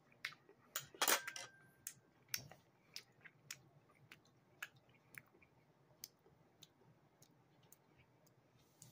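A person chewing a bite of pot sticker: a string of short wet mouth clicks and smacks, closest together and loudest in the first few seconds, then sparser.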